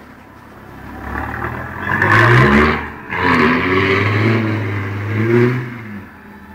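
Audi 2.5 TDI turbodiesel quattro revving hard as it slides across snow, with tyres hissing. The revs climb, drop sharply about three seconds in, climb again, and fade near the end.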